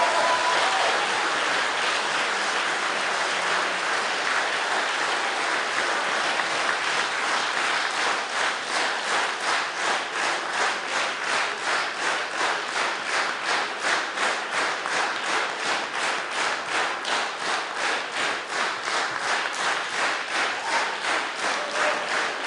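Concert audience applauding after a song ends, the last sung note dying away in the first second. The clapping starts as a dense, even wash and about a third of the way in settles into rhythmic clapping in unison, about three claps a second.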